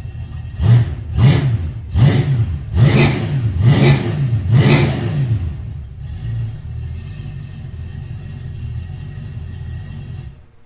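V8 engine of a Chevy S10 through cheap TOTALFLOW chambered mufflers with turndowns, blipped six times in quick succession, each rev rising and falling, then settling to a loud idle. The engine cuts off suddenly near the end.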